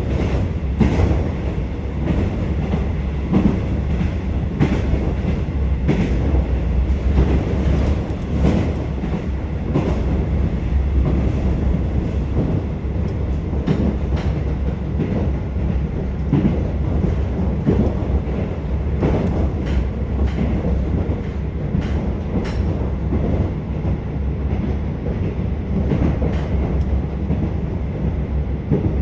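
Inside a KiHa 47 diesel railcar running at speed: a steady low rumble from the engine and running gear, with the wheels clicking over rail joints.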